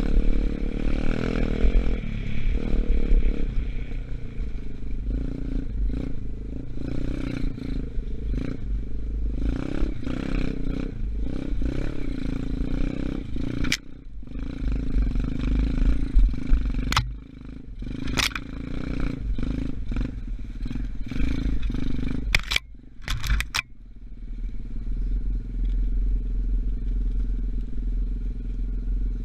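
125cc dirt bike engine running under way, its pitch rising and falling as it is ridden, with several sharp clicks and knocks in the second half. About 24 seconds in it settles to a steadier, lower note.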